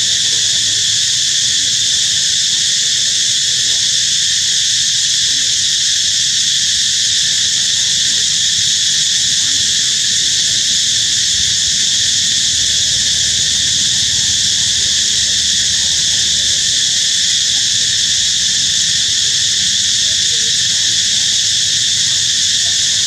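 Insect chorus, a steady high-pitched shrilling that never lets up, over a faint low rumble.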